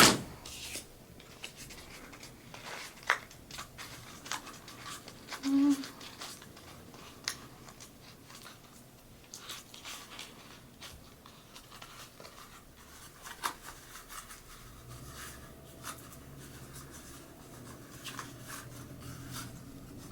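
Paper and a hot glue gun being handled in paper-craft work: scattered small clicks, taps and paper scratches, with a sharp click at the start and a brief low hum about six seconds in.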